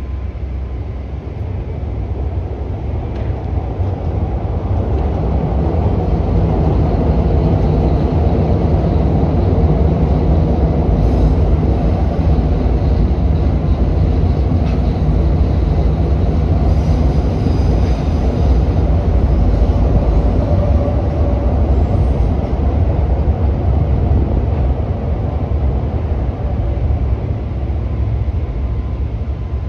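A CTA 'L' electric rapid-transit train passing, a steady rumble that builds over the first several seconds, holds, then eases near the end.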